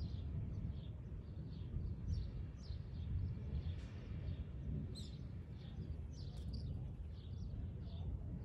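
A bird calling with short, high chirps repeated about twice a second, over a low rumbling background noise.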